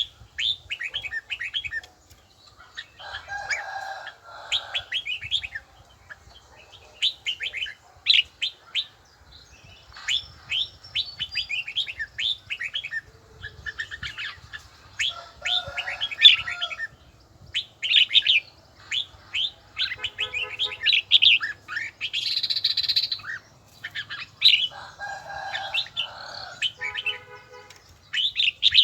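Red-whiskered bulbul singing: quick runs of short, sharp, high notes in bursts separated by brief pauses, with a few lower, fuller calls mixed in.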